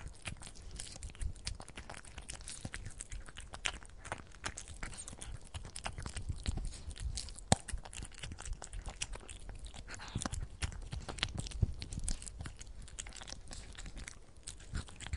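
A cat eating, its chewing making a quick, irregular run of small clicks and crackles.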